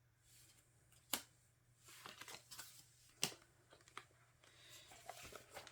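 Faint handling of photocards and album packaging: soft rustling and sliding, with two sharp clicks about a second and about three seconds in.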